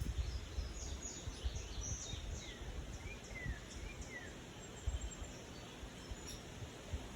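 Birds chirping: a quick run of short, high, falling notes over the first few seconds, over an uneven low rumble.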